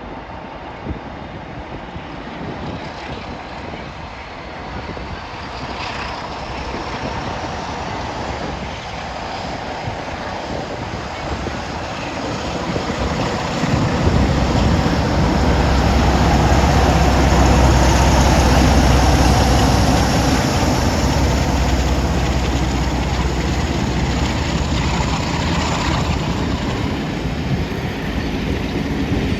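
A train passing through a station: it grows steadily louder, becomes much louder with a deep low rumble about halfway through, and then slowly fades.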